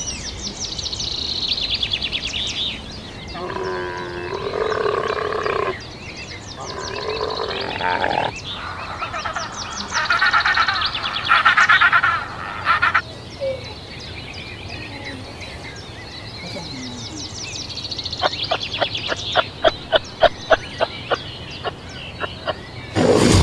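Animal calls: a series of rapid pulsed trills at different pitches, one after another, ending in a run of sharp separate clicks and a brief loud burst at the very end.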